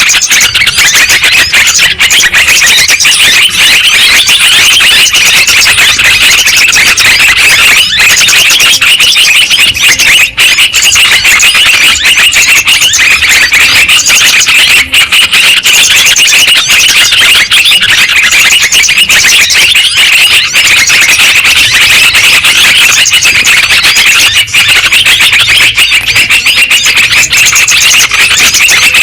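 Yellow-vented bulbuls (trucukan) calling: a dense, unbroken chatter of many overlapping bubbling calls, as in a bird-lure recording.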